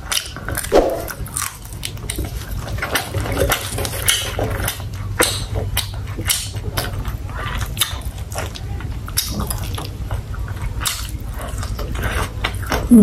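Close-up mouth sounds of eating: chewing and crunching food with wet clicks and smacks at an irregular pace, over a steady low hum.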